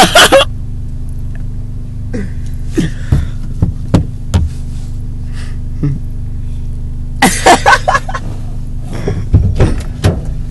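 Steady low hum of a car engine idling, with a few small knocks and a brief burst of voices about seven seconds in.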